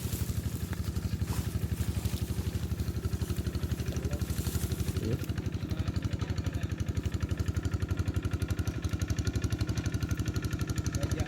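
Single-cylinder diesel engine of a Quick G1000 two-wheel hand tractor running steadily with an even, rapid chugging beat while plowing a rice paddy.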